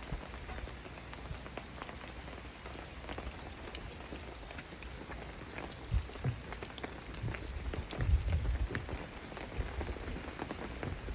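Steady rain falling, with many separate drops and drips ticking through it. Gusts of wind buffet the microphone as low rumbles, strongest about eight seconds in.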